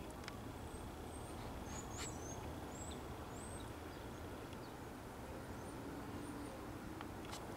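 Faint outdoor background with a steady low rumble, and a few small birds chirping in short, high, thin notes, mostly about two to four seconds in and once more near the end.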